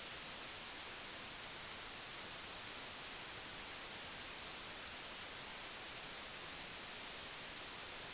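Steady hiss, brightest in the high end, with no distinct sounds standing out of it.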